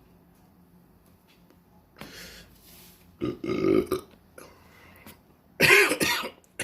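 A man burps loudly near the end, after two quieter sounds earlier on.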